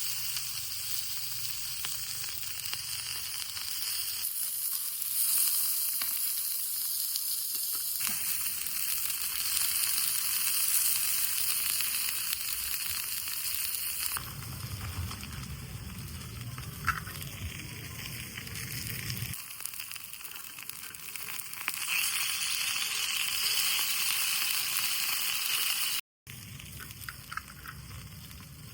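Food sizzling as it fries in a pan, a steady hiss that changes abruptly several times, with a low rumble through the middle stretch and a brief dropout near the end.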